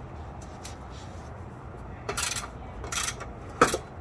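Metal handling noises from fitting an exhaust system: two short scrapes, then a sharp metallic clink about three and a half seconds in, over a low steady hum.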